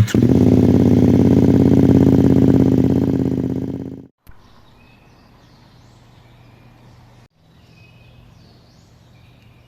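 A loud, steady drone fades out over the first four seconds. After that comes quiet outdoor ambience: a faint low hum with a few short bird chirps.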